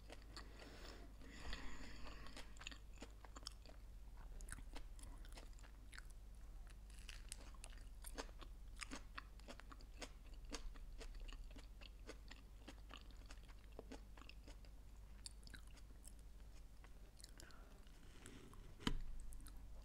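Close-miked chewing of a grill-pressed sandwich: faint mouth sounds and small crunches, repeated throughout. A soft knock near the end as the sandwich is set down on the board.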